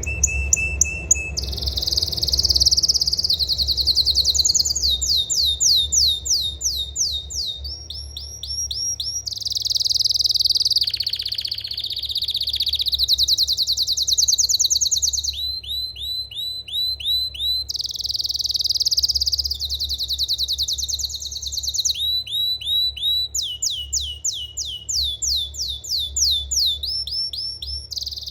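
Domestic canary singing a long song: fast rolling trills, each a quick run of identical repeated notes, switching to a new trill every second or two, with a few lower sweeping notes mixed in. A steady low hum runs underneath.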